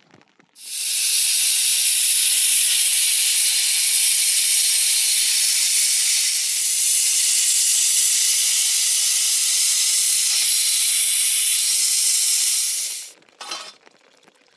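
A loud, steady hiss that starts and stops abruptly and runs for about twelve seconds, followed by a brief short burst near the end.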